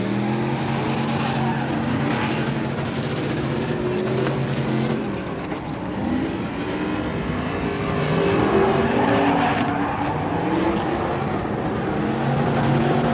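Vehicle engine running at a steady pitch, then revving up and down repeatedly before settling back to a steady note near the end.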